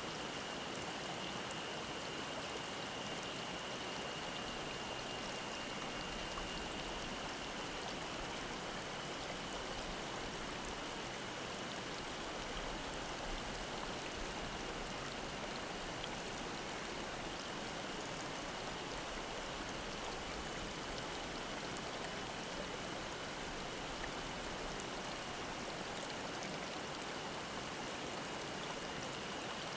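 Mountain stream babbling in a steady, even rush of water, with cicadas singing one continuous high-pitched drone behind it.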